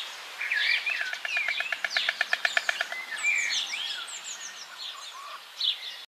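Several small birds chirping and twittering in quick, high notes, with a rapid rattling run of notes, about ten a second, lasting nearly two seconds from about a second in.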